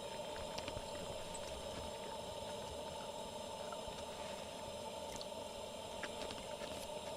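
Campfire crackling softly with scattered small pops, over a steady high-pitched drone.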